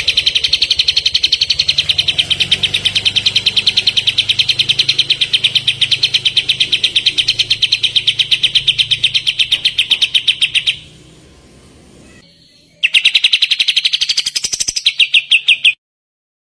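Kapas tembak songbird giving its rapid 'tembakan' song, a fast, even run of the same high note repeated many times a second. It breaks off for about two seconds, starts again, and stops abruptly.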